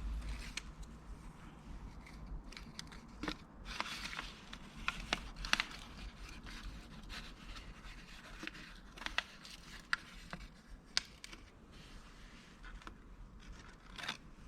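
Irregular clicks, light knocks and short scraping and rustling sounds, as of objects being handled and moved about, over a low steady hum.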